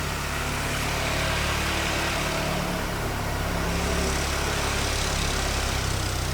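Four-wheeler (ATV) engine running steadily, a low even hum.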